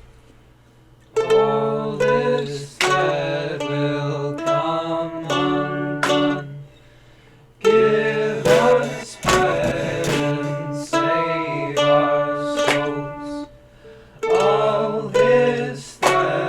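Home-recorded song opening on a plucked string instrument, playing in short phrases, with a brief pause about seven seconds in.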